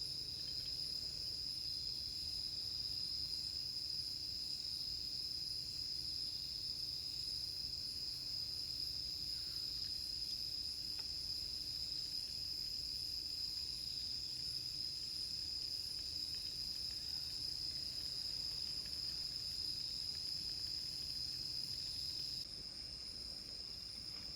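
Insects, crickets most likely, trilling as one steady, unbroken high-pitched chorus over a faint low rumble.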